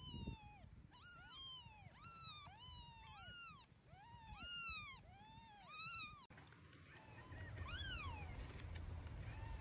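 Young kittens mewing over and over, high thin cries that rise and fall, about two a second. A break comes about six seconds in, then one more mew.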